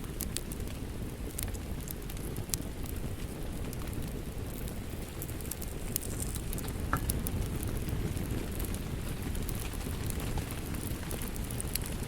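Wood fire crackling in a fireplace: a steady low rumble of flames with scattered sharp pops and snaps at irregular intervals.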